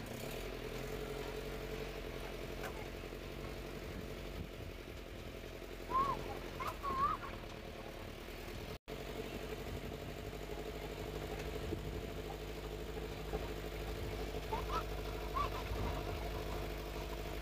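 Vehicle engine running steadily at low speed while driving slowly along a rough lane, with a momentary dropout about nine seconds in. Brief high chirps cut in twice, at about six and fifteen seconds.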